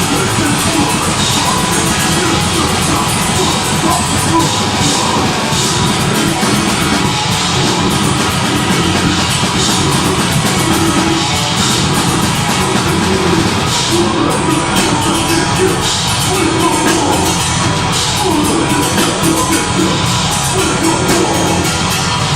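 Deathgrind band playing live: heavily distorted guitars and bass under very fast, continuous drumming, with yelled vocals.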